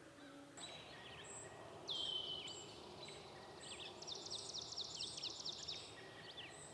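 Songbirds singing in a forest: high down-slurred whistled notes repeated through, with a fast trill in the middle and another down-slur near the end.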